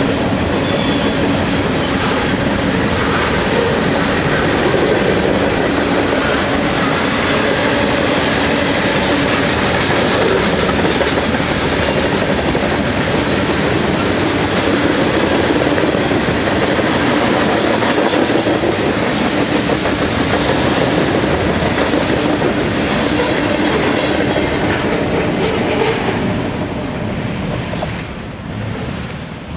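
Freight cars of a passing freight train, covered hoppers and tank cars, rolling by on steel wheels: a loud, steady rolling rattle of wheels on rail. The sound falls away near the end as the last car goes past.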